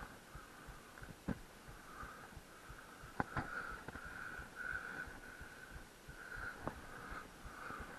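Riding noise from a bicycle: a high whine that keeps swelling and fading, sharp clicks or rattles four times, and a low rumble underneath.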